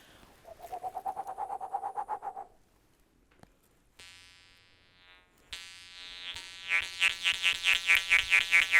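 A warbling trill at one pitch, about two seconds long. About four seconds in, a jaw harp starts a twanging drone rich in overtones. It is then plucked in a steady rhythm of about four to five strokes a second, its overtones sweeping up and down.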